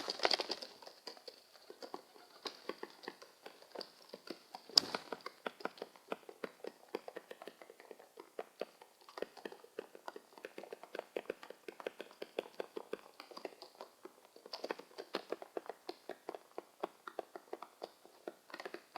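Birds pecking at food on a hard surface: many rapid, irregular taps, with a louder cluster about five seconds in.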